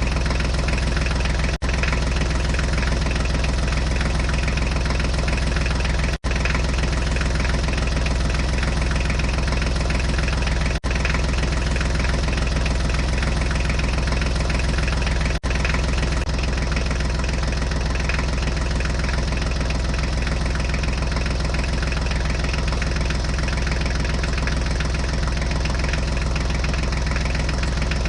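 Steady idling of a heavy diesel engine, as on a tractor or truck, repeated as a loop. It cuts out for an instant about every four and a half seconds in the first half.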